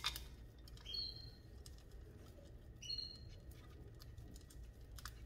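Two short, high chirps of a small bird, about a second and about three seconds in, over a faint steady hum. A sharp click at the start and a few soft ticks come from gravel and roots being handled in a clay pot.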